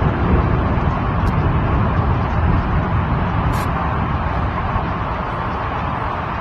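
Steady rushing noise of a heavy rainstorm, with strong low wind buffeting on the microphone.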